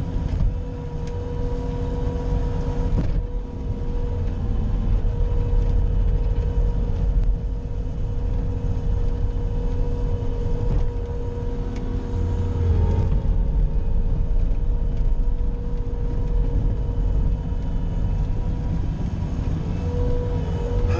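Bobcat skid-steer loader running steadily: a continuous low engine rumble with a steady whine above it.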